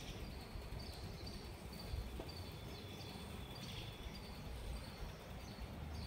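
Small birds chirping: short high notes repeated every half second or so, over a low background rumble.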